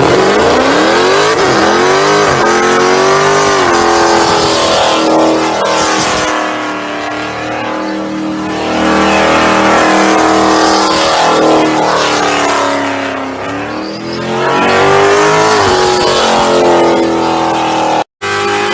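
High-revving car engine accelerating, its pitch climbing and dropping several times. The sound cuts out abruptly for a moment near the end.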